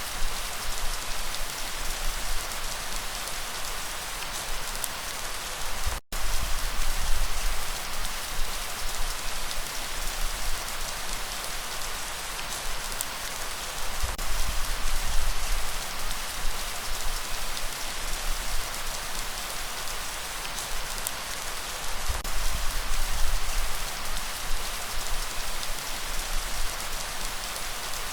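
Steady heavy rain with a dense, even hiss and patter, with low rumbles swelling underneath now and then. The sound cuts out for a split second about six seconds in.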